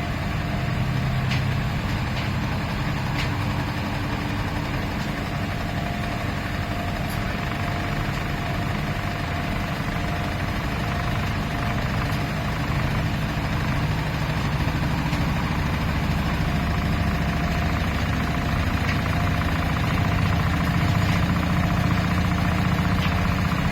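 2011 Miele PW 6080 commercial washing machine running: a steady motor-and-drum hum that grows slightly louder in the second half.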